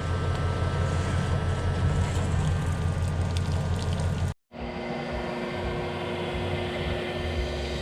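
Steady low rumble of a vehicle engine running. About four and a half seconds in it cuts out abruptly and gives way to a quieter steady drone with a faint hum.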